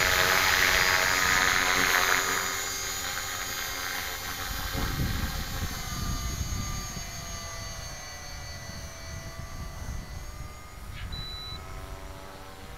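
Electric 450-size RC helicopter flying: the motor and rotor blades whine, loud for about the first two seconds and then fainter, with the pitch slowly shifting as the head speed and load change. Gusty wind rumbles on the microphone underneath.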